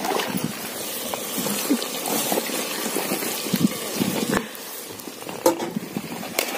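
Food frying and sizzling in a pressure cooker over a wood-fire stove: a steady hiss with stirring and scattered light clicks and knocks of metal on the pot.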